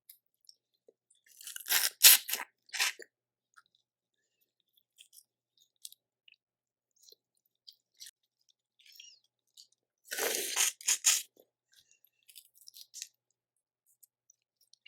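Crawfish being cracked and eaten close to the microphone: two loud crackly crunches of shell, about two seconds in and again about ten seconds in, with faint clicks and wet mouth smacks between.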